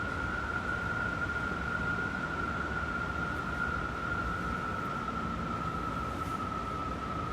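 Strong wind howling: a steady rushing noise with one high, whistling howl held at a nearly constant pitch that sinks slightly toward the end.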